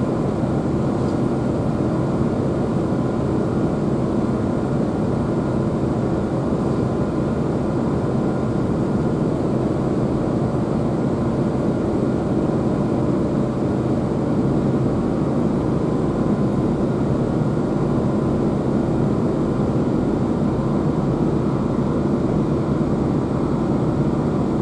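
Steady running noise inside a Class 165 diesel multiple unit carriage travelling at speed: the drone of the underfloor diesel engine mixed with the rumble of wheels on rail, unchanging throughout.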